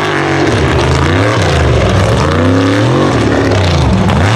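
Loud mega truck engine revving hard, its pitch rising and falling several times.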